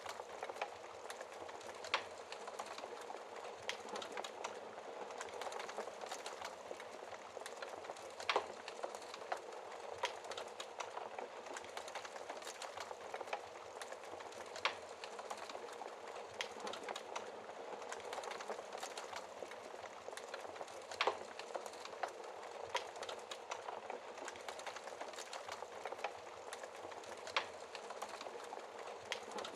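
Wood fire burning in a fireplace: a steady hiss of flames with many small crackles and five louder pops, about one every six seconds.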